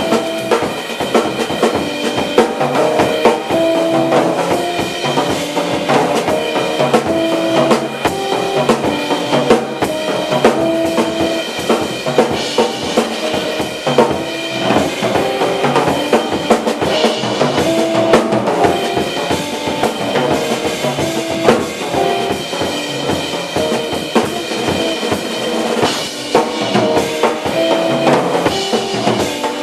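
Jazz group of two tenor saxophones, guitar, bass and drums playing, with a busy drum kit out front under held melody notes.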